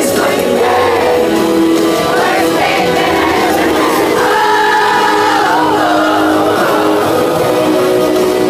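Live R&B music played through a hall's PA, with sustained sung vocal lines and backing voices over the band.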